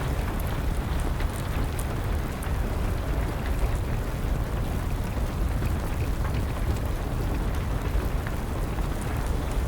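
Steady rain with a deep low rumble, overlaid with scattered small, sharp crackles from a burning wood fire.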